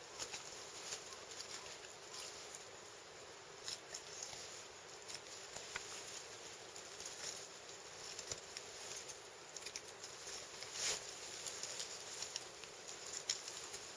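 Knife cutting and working through deer hide and meat, with the carcass being handled: faint scattered crackles and small clicks.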